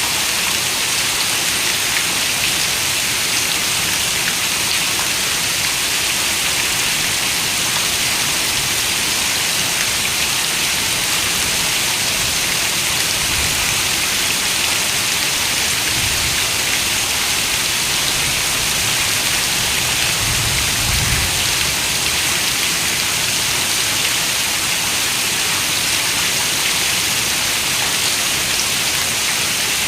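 Steady rain falling, a dense, even hiss weighted toward the high end, with a faint low rumble about twenty seconds in.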